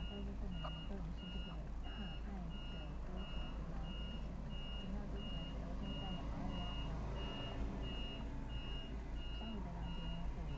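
Backup alarm on construction machinery beeping steadily at about two beeps a second, over the low rumble of its running engine.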